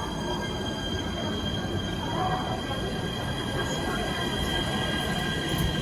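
Passenger train pulling out of a station platform: a steady running rumble with thin steady high-pitched whining or squealing tones over it, slowly getting louder.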